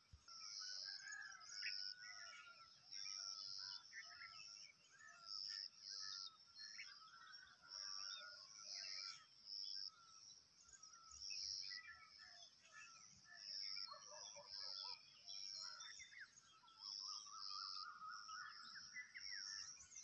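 Faint birdsong: many birds chirping, over a high call repeated a little more than once a second.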